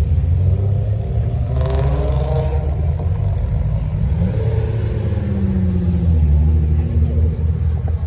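Car engines creeping past in a line, a lowered Volkswagen Golf Mk4 closest: a steady low exhaust rumble, with a short rev that rises and falls about two seconds in and an engine note sliding down a few seconds later.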